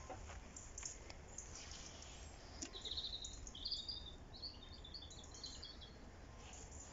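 Birds chirping: a quick run of high chirps lasting about three seconds, over a faint low rumble.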